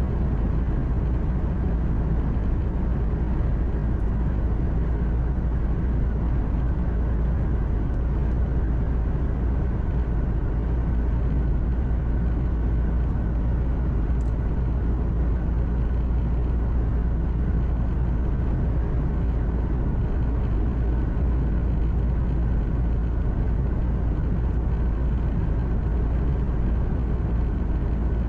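Steady low rumble of a truck's engine and road noise heard inside the cab while cruising, with no change in pitch or level.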